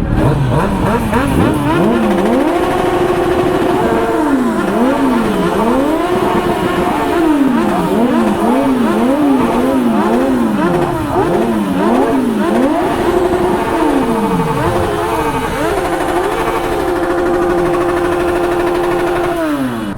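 Kawasaki sport motorcycle engines revved hard while standing, through loud open exhausts. Repeated throttle blips rise and fall in pitch, quick and overlapping in the middle, with revs held high for a few seconds near the start and for longer near the end before dropping back to idle.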